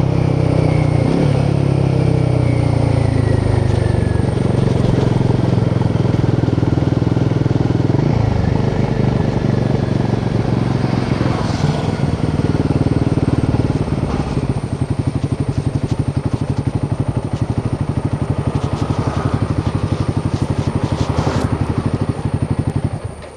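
Exhaust note of a Royal Enfield Himalayan 450's 452cc single-cylinder Sherpa engine under way. The pitch falls over the first few seconds as it slows, then it settles into a low-rpm thump with distinct, even firing pulses. The sound drops away abruptly near the end.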